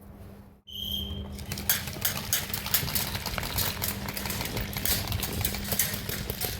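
A short high beep about a second in, then rapid sharp clicks of airsoft guns firing, many per second, over a steady low hum.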